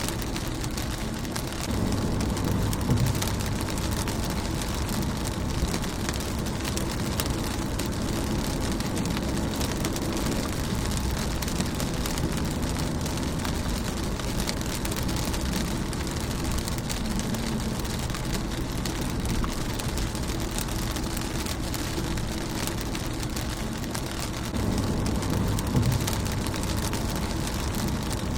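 Rain pattering on a car's windshield and body: a dense, steady patter of drops. A low rumble swells under it about two seconds in and again near the end.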